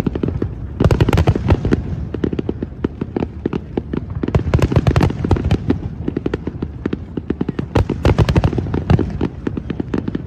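Fireworks going off in a dense, rapid barrage of crackling bangs over a low rumble, with thicker clusters of bursts about a second in, near the middle and near the end.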